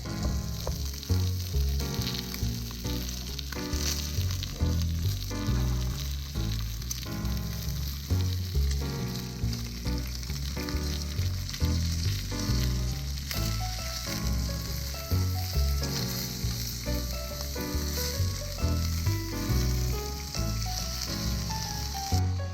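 Food sizzling as it grills over a campfire, under background music with a steady beat.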